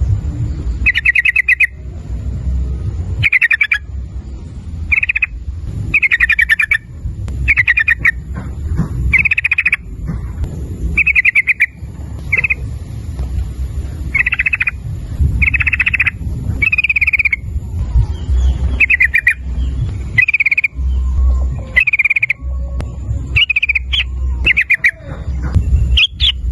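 Yellow-vented bulbul (trucukan) singing: short, bubbly, rapidly pulsed phrases repeated roughly once a second, over a steady low rumble.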